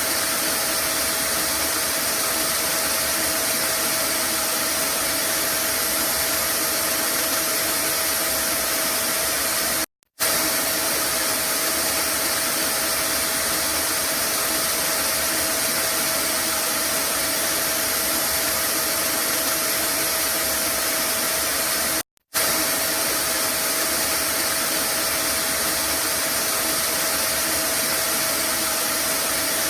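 Vacuum cleaner running steadily: an even rushing hiss with a steady mid-pitched whine. The sound cuts out for a moment twice, about ten seconds in and again about twelve seconds later.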